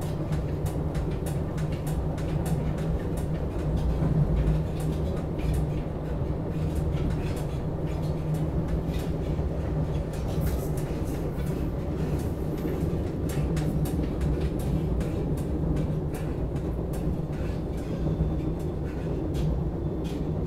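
Interior noise of a SEPTA Regional Rail passenger car: a steady low hum and rumble, with scattered faint clicks.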